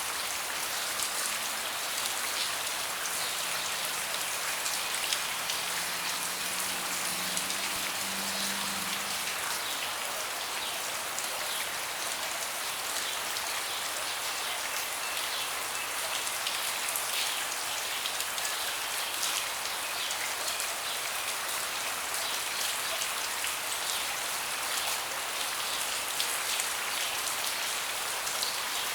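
Steady rain falling on a deck, a dense, even patter of many small drops. A faint low hum sits underneath for the first several seconds and fades out by about nine seconds in.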